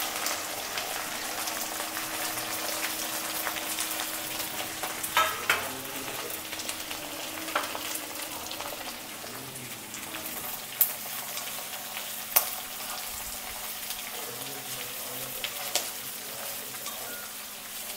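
Chopped onion, curry leaves and green chillies sizzling steadily in hot oil in a cast iron kadai, stirred with a wooden spatula. A few sharp clicks and knocks stand out now and then.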